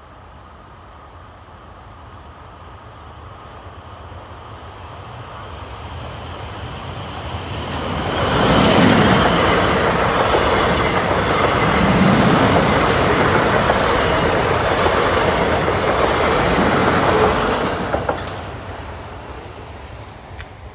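A South Western Railway Class 450 Siemens Desiro electric multiple unit, two units coupled, passing over the level crossing at speed. It grows louder as it approaches, runs loudly past for about ten seconds, then cuts away quickly as the last coach clears.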